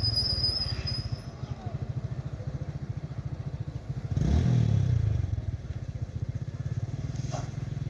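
Vehicle engine idling with a rapid low putter, revving up briefly about four seconds in and settling back to idle.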